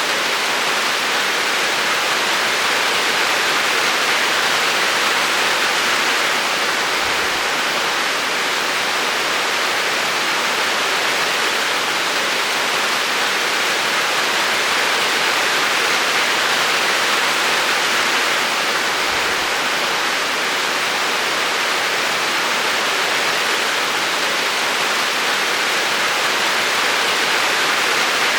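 Steady rain falling, an even, unbroken hiss. Two faint low thumps come about a quarter of the way in and again about two-thirds through.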